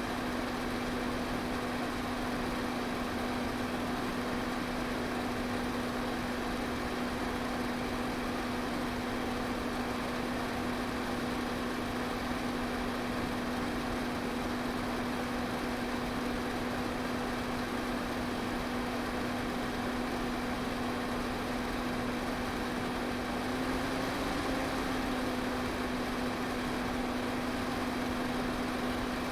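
Electric fan running steadily: an even rush of air over a constant low motor hum, which wavers slightly in pitch a few seconds before the end.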